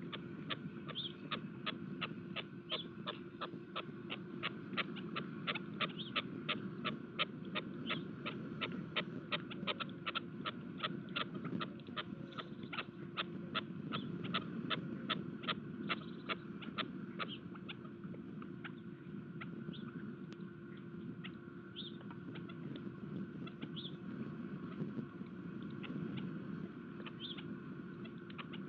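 Pheasants pecking at feed on a bird feeder: rapid sharp taps about two to three a second, thinning out to scattered taps about two-thirds of the way through. A few short high chirps and a steady low hum run underneath.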